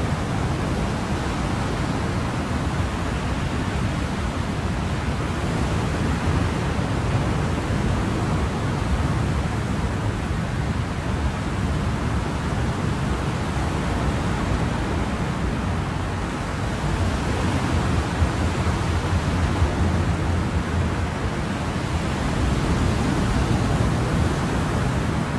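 Ocean waves washing in a steady, continuous surf, swelling gently in loudness about 17 seconds in and again near the end.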